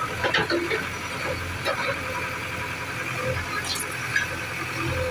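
A machine's engine running steadily, with a few short knocks in the first second.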